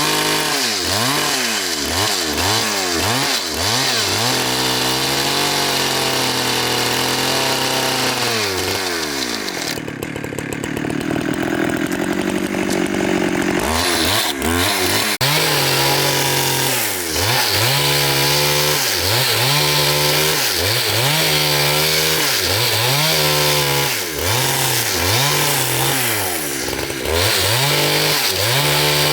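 Petrol chainsaw cutting through timber. The engine's pitch drops and recovers over and over, about once a second, as it bogs under load in the cut and picks up again. A steadier, duller stretch comes in the middle.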